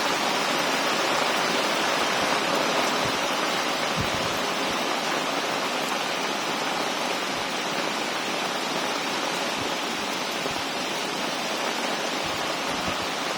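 Heavy rain pouring down in a steady, even hiss, with a few soft low thumps here and there.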